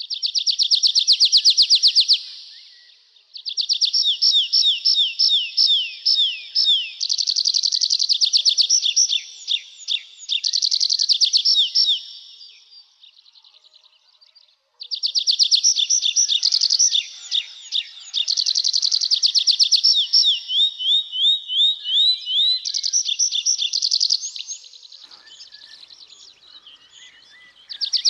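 Nightingale singing: loud phrases of rapid repeated notes, each a few seconds long, separated by short pauses, with a longer break about halfway through.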